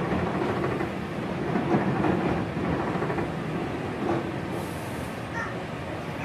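Resistance-controlled Hankyu 5000 series electric train running, a steady rumble of wheels on the rails and traction motors, easing slightly in level towards the end.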